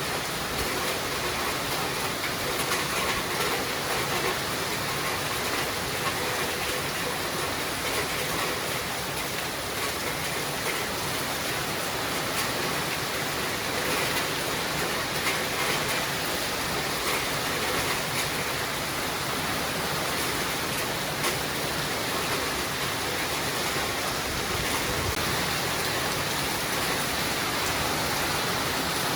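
Steady rainfall: a dense, even hiss of rain with faint separate drop ticks scattered through it.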